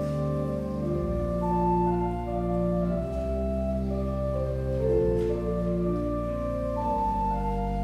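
Church organ playing slow, sustained chords over deep held bass notes, the harmony shifting every second or so, as an instrumental introduction to a choral anthem.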